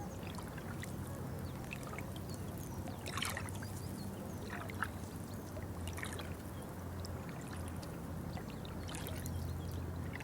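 Water trickling and pouring, with many short high chirps and ticks over it and a few brief louder splashy bursts. A steady low hum runs underneath.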